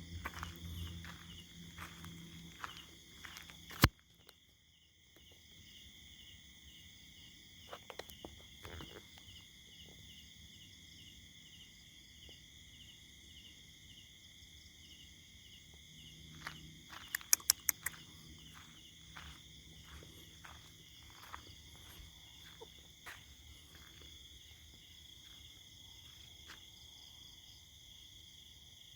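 Night-time chorus of insects and crickets, a steady high trilling throughout. Over it come runs of short clicks, a sharp loud click about four seconds in, and a burst of clicks about two-thirds of the way through.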